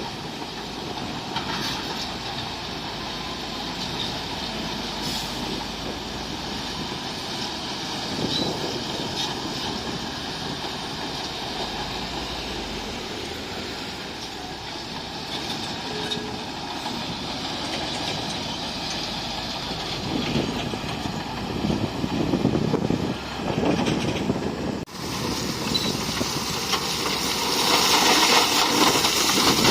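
Heavy earthmoving machinery working: steady diesel engine noise with occasional knocks. It cuts abruptly about 25 s in to a louder, hissier stretch of machine noise.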